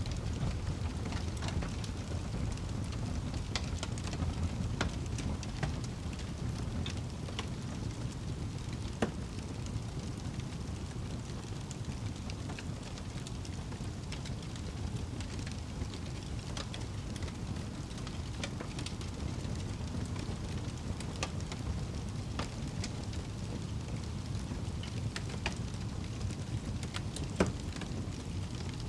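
Wood fire crackling in a fireplace: scattered sharp pops and snaps over a low, steady rumble, with two louder pops, one about nine seconds in and one near the end.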